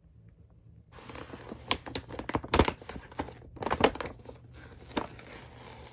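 A mail-order clothing package being opened by hand: packaging crinkling and tearing, with several sharp crackles, starting about a second in.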